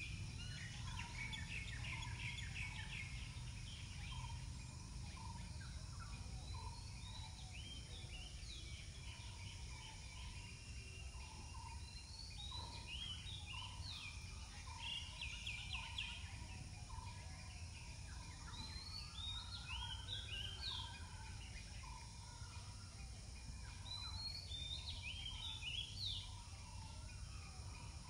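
Several birds chirping and calling, with clusters of quick high notes every few seconds and a short lower note repeating about once a second, over a steady low rumble.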